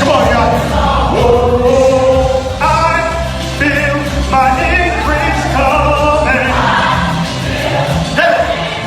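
Gospel choir singing held phrases, backed by a steady bass line.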